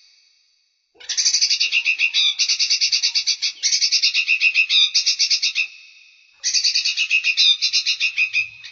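Songbird giving fast, high-pitched chattering trills of about a dozen notes a second, in phrases of one to two seconds. The first phrase begins about a second in, and there is a short pause just after the middle.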